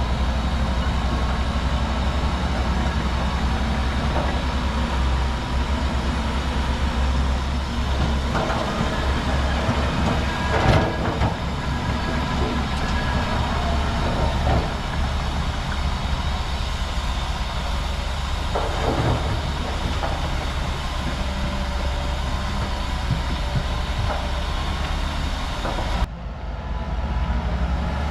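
Bulldozer's diesel engine running steadily with its steel tracks clanking, and a few louder metallic clanks and squeals about ten and nineteen seconds in.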